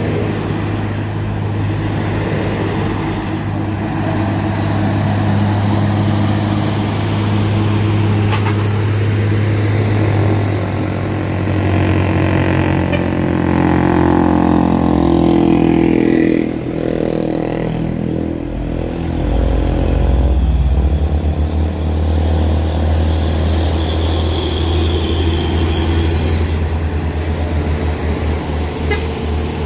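Diesel truck engine running under load on a climb, a steady low drone whose note shifts and drops lower a little past halfway.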